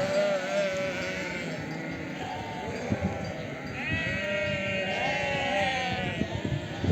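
A flock of sheep bleating, several animals calling over one another in long wavering bleats.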